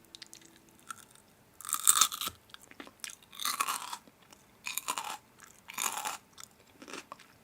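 A person biting and chewing crisp, crunchy food: four loud crunches, one roughly every second and a half, with fainter chewing clicks between them.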